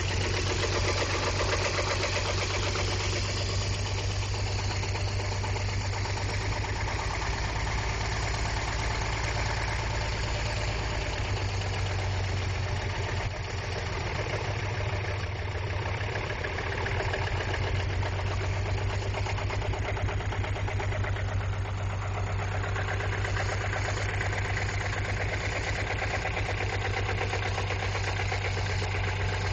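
Chevrolet 4.3-litre TBI V6 running steadily without oil or coolant, with a rapid knock from its failing main bearings.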